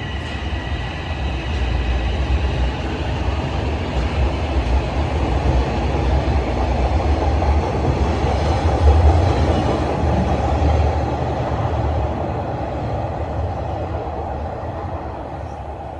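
TTC Toronto Rocket subway train moving through the station: a heavy rumble that swells to its loudest about nine seconds in and then slowly fades.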